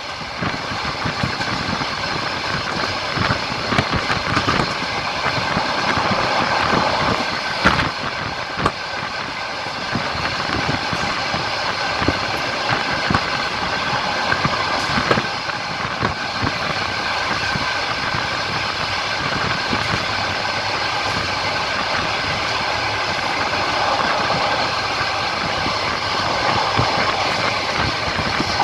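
Passenger train running on the rails, heard from inside the carriage: a steady rumble of running noise with irregular knocks of the wheels over rail joints.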